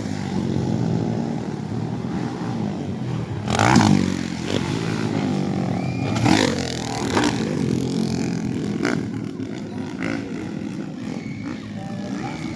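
Motocross dirt bike engines running, with several brief louder rises in engine noise.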